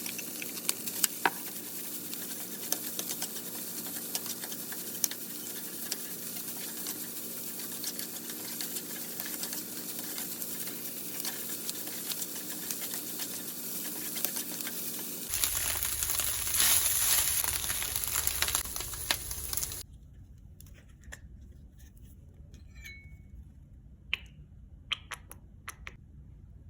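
Chicken frying in a pan, sizzling steadily while a utensil stirs and clicks against the pan. The sound changes abruptly about 15 s in and again about 20 s in, ending with a few faint clinks over low background.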